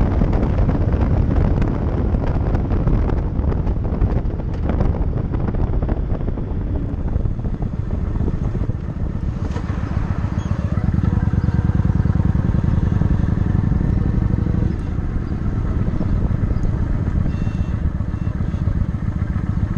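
Motorcycle engine running steadily on the road, with wind buffeting the microphone for the first several seconds. About eight seconds in, the engine's steady note comes through clearly, and it eases a little near fifteen seconds.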